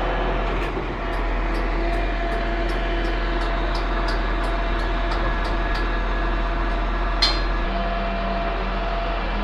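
Concrete pump running: a steady machine drone with a light ticking about twice a second and one sharp clack about seven seconds in.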